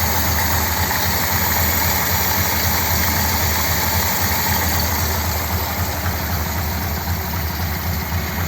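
1957 Ford Thunderbird's Y-block V8 idling steadily from a cold start without choke, running smoothly now that the carburettor's accelerator pump gives a good squirt.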